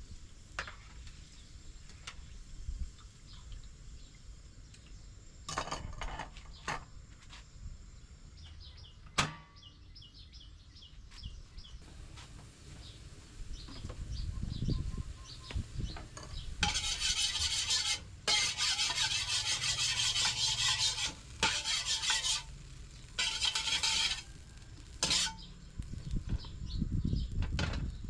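Kitchen utensils and dishes clinking with a few sharp knocks, then several bursts of bright hissing noise, each one to three seconds long with short breaks between them.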